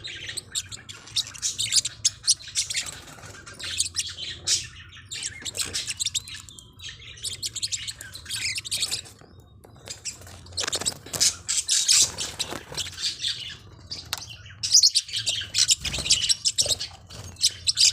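Forpus parrotlets chirping and twittering: rapid high chirps in busy clusters with brief lulls, and an occasional squawk.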